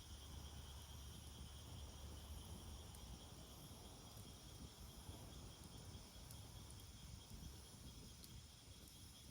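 Faint, steady chirring of insects such as crickets, over a low rumble, with a few faint clicks.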